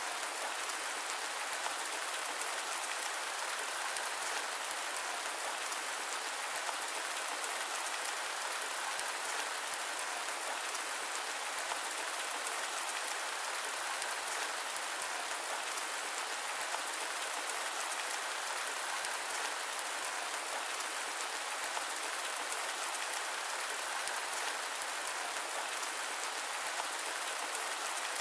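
Steady rain mixed with white noise: an even, unbroken hiss of dense drop patter with little low end.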